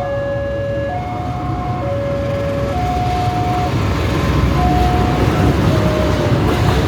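Railroad crossing warning alarm alternating between two tones, switching about once a second, as a train hauled by a CC 206 diesel-electric locomotive approaches. The train's rumble grows louder from about three seconds in and becomes the loudest sound.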